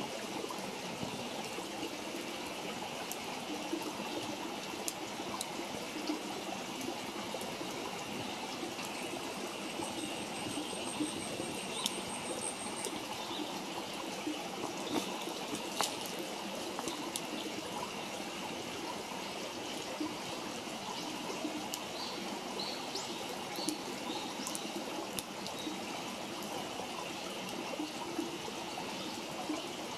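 Wood campfire crackling, with scattered sharp pops over a steady rushing, water-like hiss.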